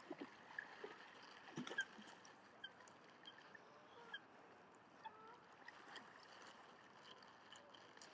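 Near silence by open water, with faint, scattered short calls and chirps of waterbirds and a few tiny clicks.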